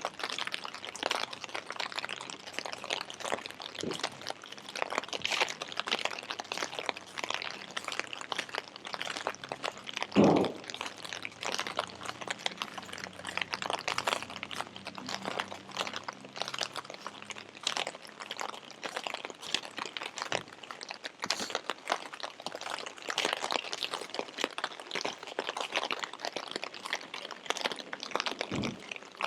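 Steady patter of rain, a dense crackle of many small drops. A single dull thump stands out about ten seconds in, with a softer one near the end.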